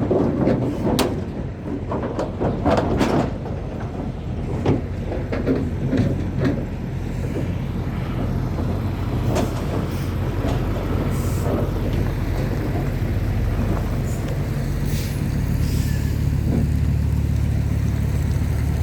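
A heavy truck's diesel engine idling steadily, a little louder in the second half, with scattered knocks and clatter over the first several seconds.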